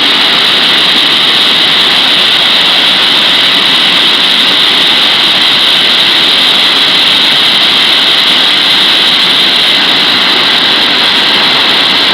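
Waterfall: a steady, loud rush of falling water that holds even throughout.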